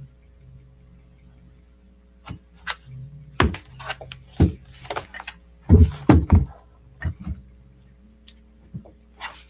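Irregular knocks and thuds of a 2010 MacBook Pro laptop being handled on a hard work surface, with the loudest cluster about six seconds in, over a steady low hum.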